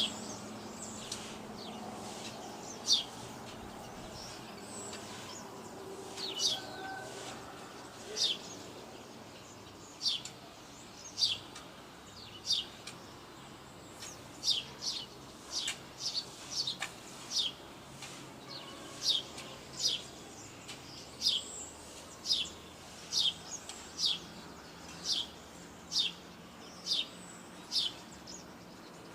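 A bird chirping over and over, each call a single short high note that falls in pitch, coming about once a second and most steadily in the second half, over a faint steady outdoor background.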